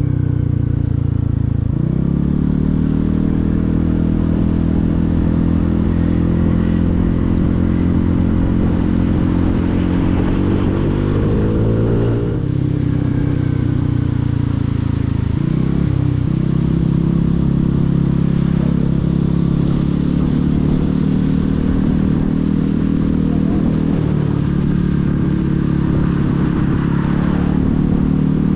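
Motorcycle engine running under way, its pitch climbing slowly as the bike gathers speed, dropping briefly about twelve seconds in and again a few seconds later as the revs fall, then holding fairly steady.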